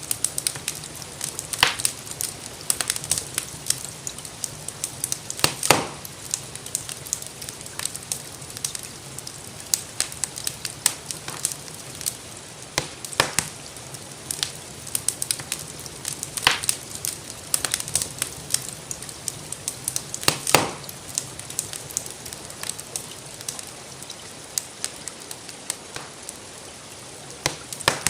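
Wood fire crackling in a fireplace: irregular snaps and a few louder pops over a steady hiss of gentle rain.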